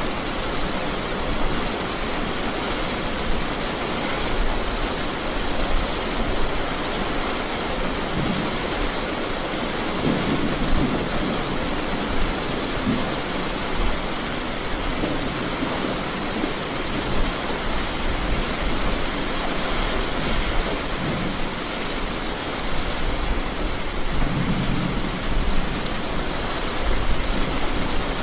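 Steady rain, with low rumbles of thunder swelling and fading several times.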